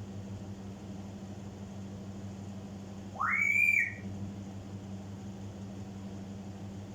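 An African grey parrot gives a single whistle about three seconds in, sweeping steeply upward and then holding a high note for about half a second.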